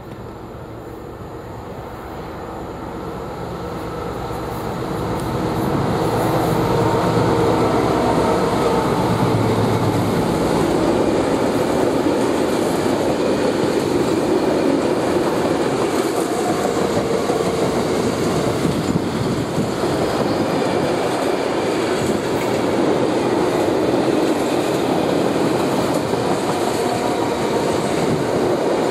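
British Rail Class 60 diesel locomotive approaching and passing, its engine growing louder over the first six seconds, then a long train of loaded oil tank wagons rolling by with a steady noise of wheels on the rails.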